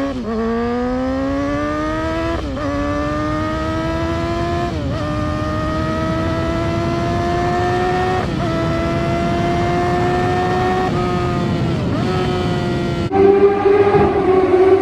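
Yamaha R6 inline-four engine accelerating through the gears. The pitch climbs, then drops briefly at each of about five upshifts, and the climbs grow slower and longer with each gear. Near the end the sound suddenly gets louder.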